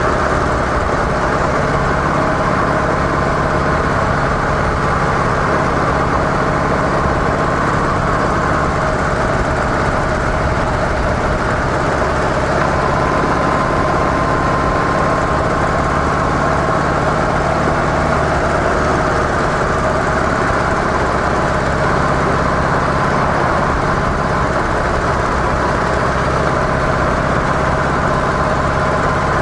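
Harley-Davidson CVO Softail Deluxe's Twin Cam 110 V-twin on its stock mufflers, running steadily with no change in pace.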